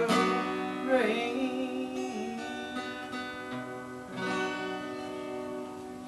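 Acoustic guitar playing the song's closing chords under a sung note that bends in pitch about a second in; a last strummed chord about four seconds in rings on and slowly fades.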